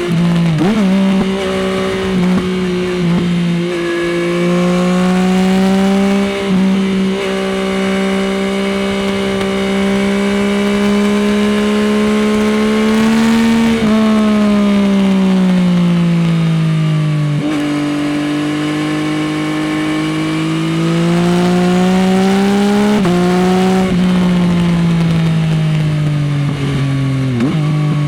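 Yamaha XSR900's three-cylinder CP3 engine through an Akrapovič exhaust, ridden hard: the revs climb slowly under throttle, then fall away on the overrun into corners, several times over. There are a few quick sharp throttle blips, near the start and near the end.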